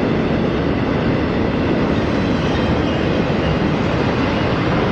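Intermodal freight train's cars rolling past close by: steel wheels on rail making a steady, loud rolling noise.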